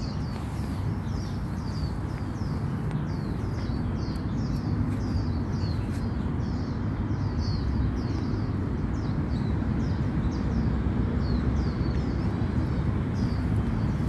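A bird calling over and over in short, high, downward-sliding notes, about two or three a second, over a steady low rumble.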